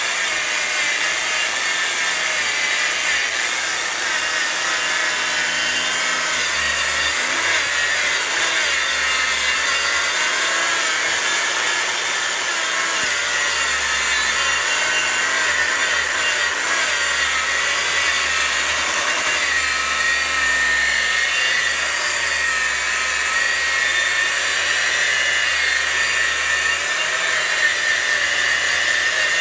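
Harbor Freight 11-amp angle grinder running continuously as it grinds Rust-Oleum Deck Restore coating off wooden deck boards. Its motor whine wavers up and down in pitch as the disc is worked against the wood.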